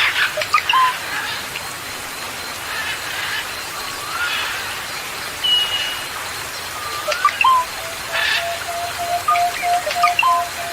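Songbirds calling over a steady rain-like hiss: scattered short chirps and whistles, a couple of slurred rising notes, and a long steady note that begins about seven and a half seconds in.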